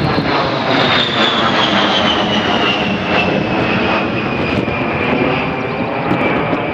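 A-10 Thunderbolt II's twin TF34 turbofan engines whining over a steady jet roar as the aircraft flies past. The whine falls slowly in pitch throughout.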